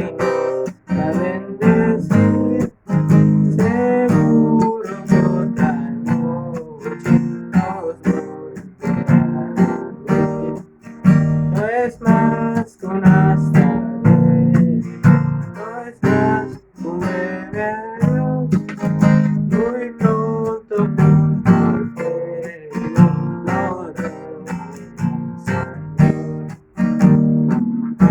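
Acoustic guitar strummed in a steady rhythm of chords, accompanying a song.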